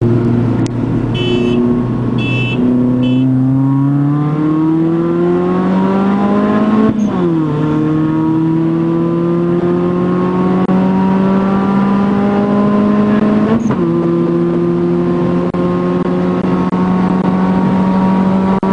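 Turbocharged four-cylinder engine of a Saturn Astra under full acceleration, heard from inside the cabin, on a car with a slipping clutch. Its pitch climbs steadily, drops sharply at an upshift about seven seconds in and again about thirteen and a half seconds in, then climbs again. A few short high tones sound near the start.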